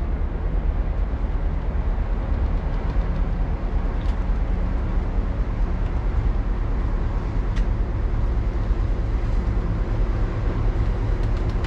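Steady low rumble of a moving train, its wheels rolling on the track, with a couple of faint clicks.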